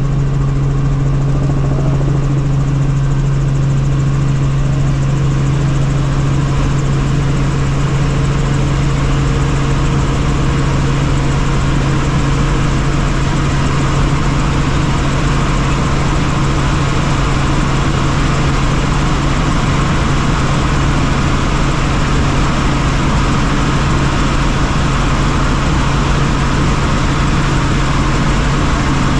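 Helicopter in flight, engine and rotor running steadily: a loud, unchanging noise with a strong steady low hum.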